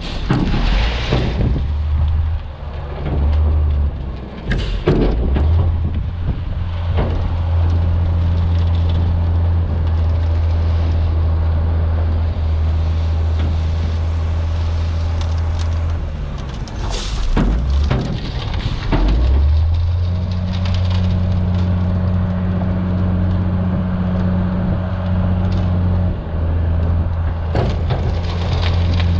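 International S1900 dump truck's DT466 diesel engine running at low speed, easing off and picking back up a couple of times, with scattered knocks and rattles from the truck.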